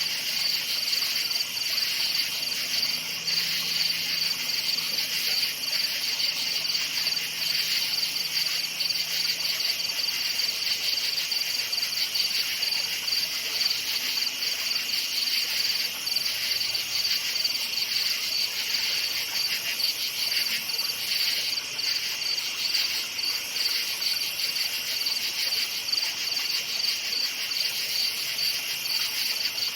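A night chorus of crickets chirping: a continuous, high-pitched, finely pulsing trill of many insects, steady in level throughout.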